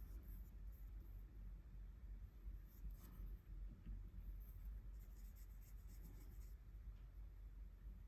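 Faint, scratchy strokes on paper while gouache swatches are made, in short runs about three seconds in and again through the middle, over a low room hum.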